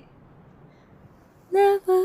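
A woman singing softly and unaccompanied. After a short pause with only a faint steady background hiss, she comes in about one and a half seconds in with a long held note.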